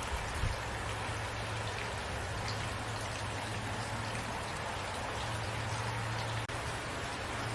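Steady rain falling, a dense even patter of drops with a low steady rumble underneath. The sound drops out for an instant near the end.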